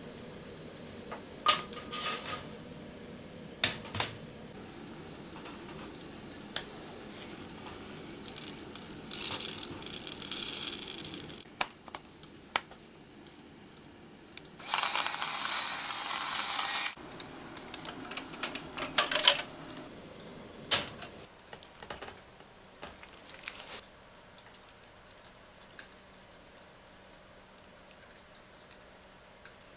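Small hard objects being handled: scattered clicks and knocks. A steady hiss runs for about two seconds midway.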